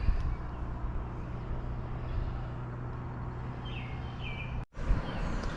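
Open-air ambience: a steady low rumble with a bird giving two short falling chirps late on. The sound cuts out for an instant near the end.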